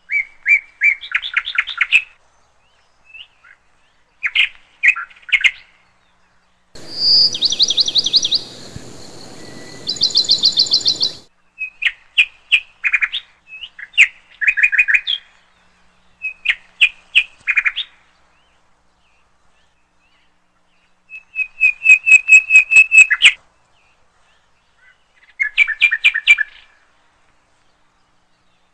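A bird chirping in groups of rapid, high chirps, each group a second or two long, with short silent pauses between them. A faint hiss lies under the chirps for a few seconds near the middle.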